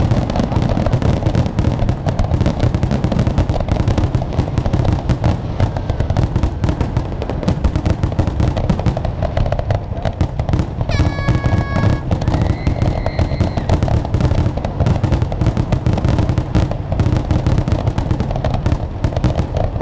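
Fireworks finale: a dense, unbroken barrage of shell bursts and crackling, many bangs overlapping each second. About halfway through, a brief whistle-like tone sounds over the bangs.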